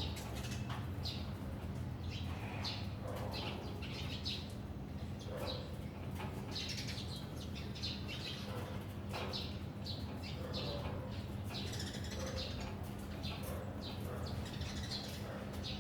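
Many small birds chirping, short calls coming thick and fast from several birds at once, over a steady low hum.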